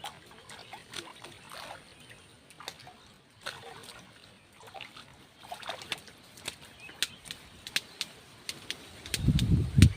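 Light splashing and trickling water with scattered sharp ticks; a low gust of wind rumbles on the microphone near the end.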